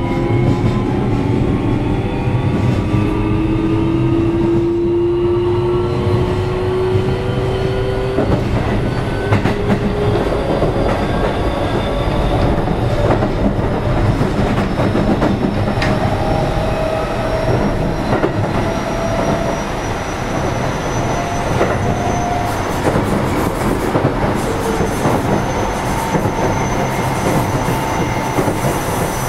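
Running sound inside a Keio 7000-series electric train car: traction motor whine in several tones climbing steadily in pitch as the train accelerates away from a station, over a steady rumble of wheels on rail.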